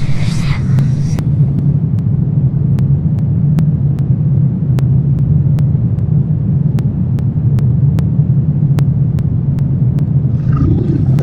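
Low, steady rumbling drone of a horror ambience track, with faint sharp clicks a couple of times a second. A higher layer of sound cuts off about a second in, and another higher sound comes in near the end.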